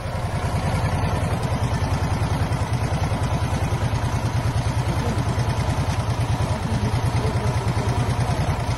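Mazda R360 Coupe's rear-mounted V-twin four-stroke engine running steadily, with an even, fast pulsing beat.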